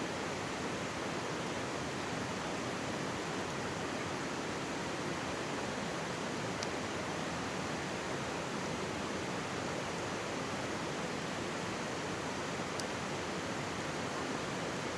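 Mountain stream babbling steadily right beside the microphone, with a wood campfire giving two faint crackles, about halfway through and near the end.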